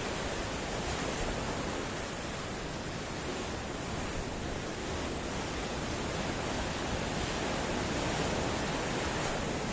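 Ocean surf: a steady rush of waves breaking and washing in, swelling slightly louder near the end.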